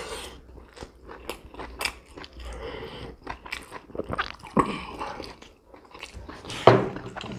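Close-up eating sounds of steamed pork momos being chewed: irregular wet smacks and clicks of the lips and mouth, with a couple of louder smacks about halfway and near the end.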